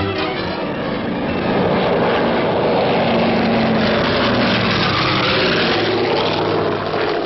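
Propeller airliner's piston engines running, a loud droning roar that swells about two seconds in and holds steady. The aircraft is the four-engine Douglas DC-6, with its radial engines.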